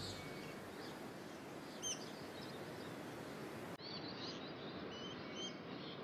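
Quiet rainforest background with a few short, high bird chirps, the clearest about two seconds in.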